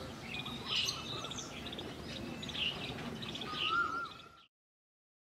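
Birds chirping and calling over faint outdoor ambience, with a clear whistled note that rises and falls near the end; the sound cuts off to silence about four seconds in.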